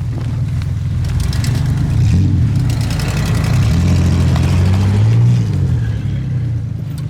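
Pickup truck engine revving, climbing in pitch and loudness over the first few seconds, holding high, then easing off near the end.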